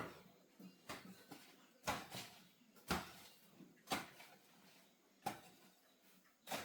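Seven short, sharp knocks about a second apart, steady and even, like a tool striking over and over.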